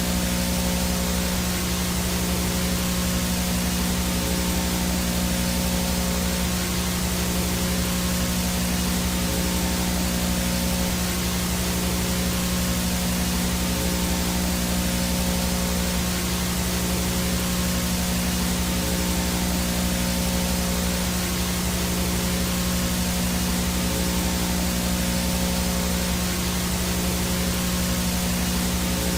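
VHS no-signal static: a steady hiss of white noise with a low electrical hum and a faint high whine running under it, unchanging throughout.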